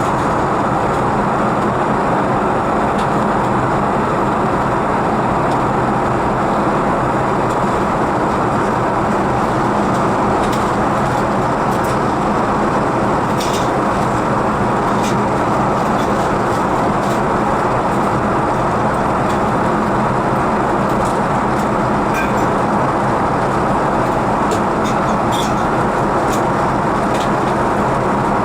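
Steady cabin noise inside an Airbus A380 airliner: an even rush of engine and airflow noise, with a few faint ticks from the cabin.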